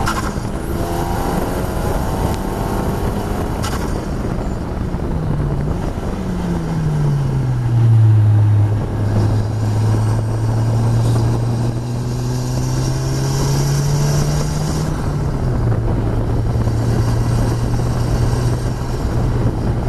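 Onboard sound of a KTM X-Bow's turbocharged Audi 2.0-litre four-cylinder engine at speed on track. The engine note falls in steps as the car brakes and shifts down from high speed for a corner, then holds a lower steady note through the bend and as it pulls away, over steady wind and road noise.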